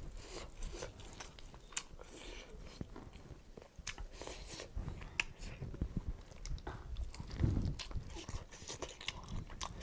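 Close-up mouth sounds of eating cooked duck by hand: wet chewing and smacking with many small sharp clicks and crunches as meat is bitten and torn from the bone.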